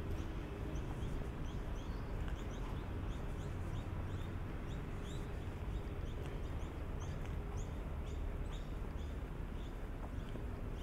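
Birds chirping: many short, high, rising chirps, a few every second, over a steady low background rumble with a faint steady hum.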